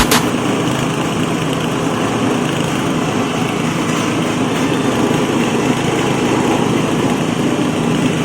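Multifunction livestock-feed chopper machine running steadily under its motor, a constant engine-like hum and rattle with no change in speed.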